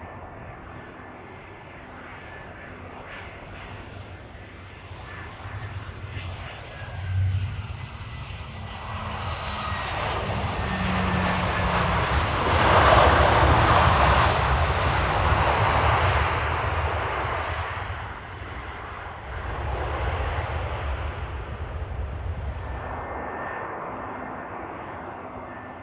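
Airbus A320 jet airliner landing: its engines grow louder over several seconds, are loudest about halfway through, then fade.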